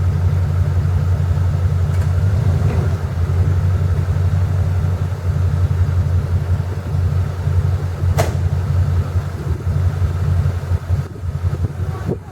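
Off-road 4x4 truck engine running steadily with a deep, even rumble. A single sharp click sounds about eight seconds in.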